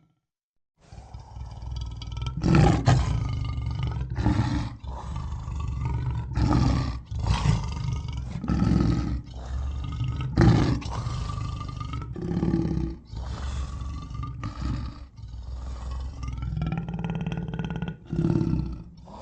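Lion roaring: a long run of about a dozen deep roars in close succession, starting suddenly after a moment of silence.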